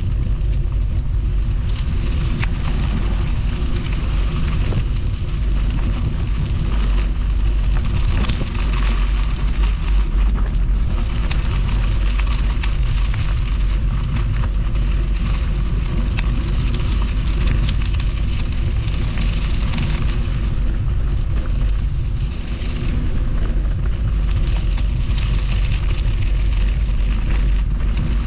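Wind buffeting the microphone of a camera on a moving bicycle: a steady low rumble with a rushing hiss on top.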